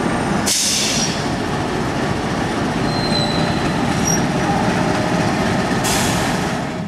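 Freight train's tank wagons rolling past close by, a steady rumble of wheels on rail with a few brief high squeals from the wheels. A hissing surge in the high end comes about half a second in and again near the end.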